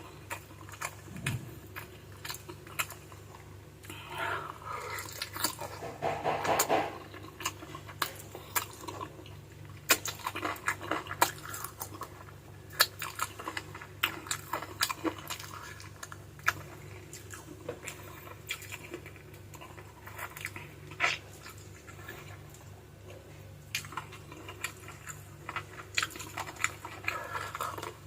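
Close-up eating of spicy chicken feet adobo: wet chewing, sucking and slurping at the skin and small bones, with many sharp smacking clicks throughout. A short pitched sound, like a hum or moan of eating, comes about four to seven seconds in.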